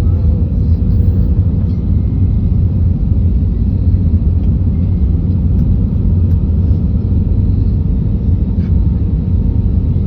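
Steady, loud low rumble inside an airliner cabin as the plane rolls on the ground after landing, with a faint steady hum over it and a few light rattles.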